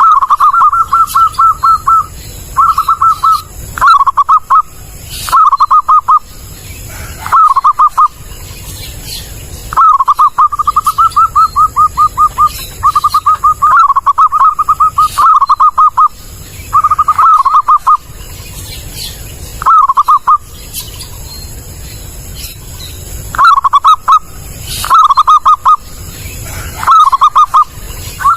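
Zebra dove (perkutut) song, a loud master recording for luring. It comes as repeated phrases of rapid staccato cooing notes, some brief and some running about two seconds, with short pauses between them.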